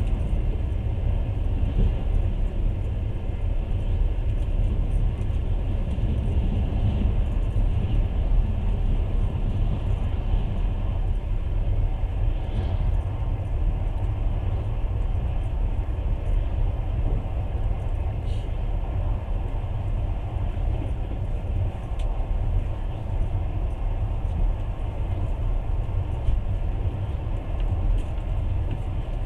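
Passenger train running at speed, heard from inside the carriage: a steady low rumble of wheels on the rails, with a few faint ticks.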